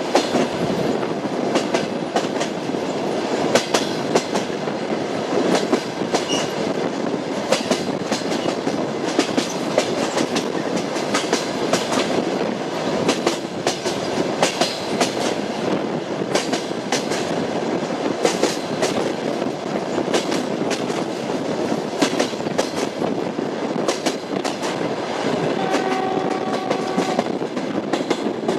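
Train wheels clattering over rail joints under a steady running rumble, with frequent irregular clicks. Near the end a short steady horn-like tone sounds for about two seconds.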